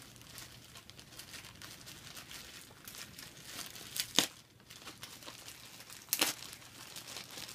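Packaging and clothing being handled during an unboxing: a run of crinkling and rustling, with two louder, brief rustles about four and six seconds in.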